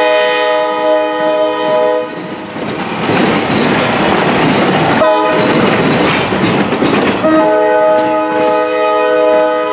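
The multi-chime air horn of ex-D&H RS-11 diesel locomotive 5010, the end of a long blast, a short blast about 5 s in, then a long blast starting about 7 s in: the long-long-short-long pattern sounded for a grade crossing. A steady rumble of the passing train runs under it.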